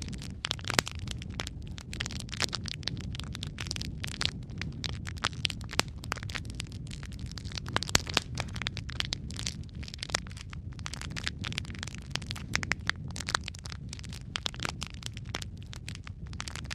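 Log fire in a fireplace, crackling steadily with many irregular sharp pops and snaps over a low, even rumble of burning.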